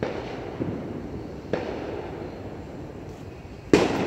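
Fireworks going off: a bang at the start, a smaller one just after, another about a second and a half in, and the loudest near the end, each followed by a fading echo.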